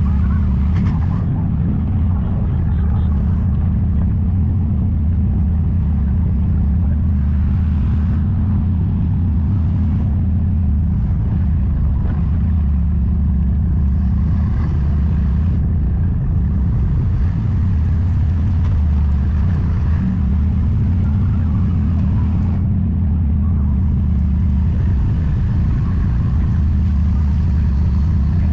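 Motor vehicle cruising at a steady speed: a constant low drone of engine and road noise that holds even throughout, without revving or gear changes.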